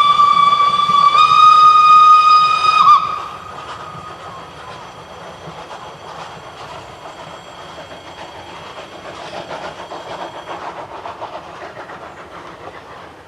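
Steam locomotive whistle blowing one loud, long note that cuts off about three seconds in, followed by a much softer steady hiss.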